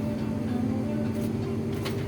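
Duduk melody holding a long, steady note, with a vehicle's engine and road rumble underneath and a couple of light rattles near the end.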